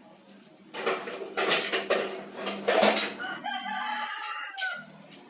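A rooster crowing loudly for about four seconds, starting about a second in, mixed with some clattering knocks.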